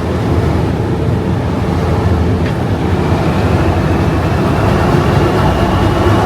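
English Electric 12CSVT V12 diesel engine of Class 37 D6700 running, heard from inside the cab. About three seconds in, a thin whistle from the turbocharger comes in and slowly rises in pitch as the engine grows a little louder. There is a single short click midway.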